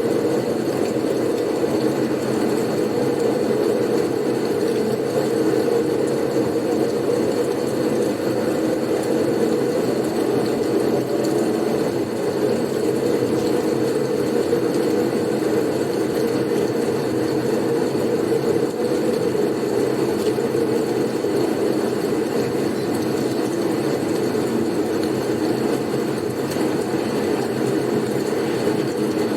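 Blizzard wind sound: a steady, unbroken rushing noise, heaviest in the low-middle range, with no gusts standing out.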